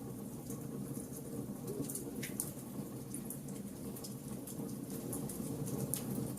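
Wood fire burning: a steady low rush of flames with scattered sharp crackles and pops from the burning wood, a couple of them louder, about two seconds in and near the end.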